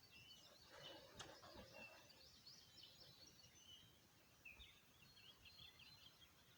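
Near silence with faint bird chirps, short high notes scattered through, more frequent in the second half.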